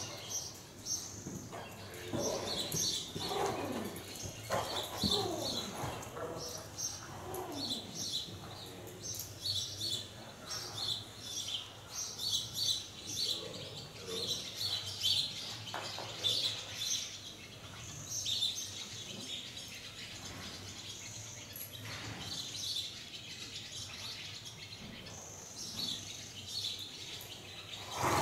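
Small birds chirping over and over, short high chirps all the way through, with some lower gliding sounds between about two and nine seconds in.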